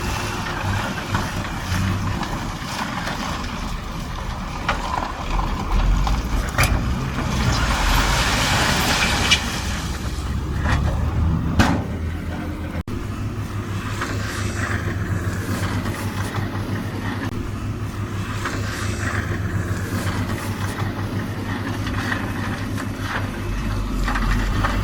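Heavy diesel earthmoving machinery (bulldozer and dump truck) running under load, a steady low engine drone with a few sharp clanks. A rushing noise rises for a few seconds before the middle, and the sound changes abruptly about halfway.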